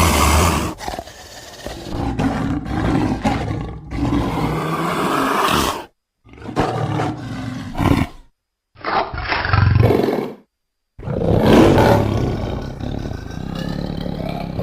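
Big-cat roars and snarls in a row, about five separate calls with short silent gaps between them.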